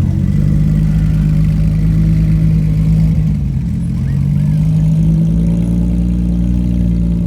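Porsche 911 GT3's naturally aspirated flat-six engine and exhaust running loudly at a steady, held note. The pitch sags a little about three seconds in, then holds.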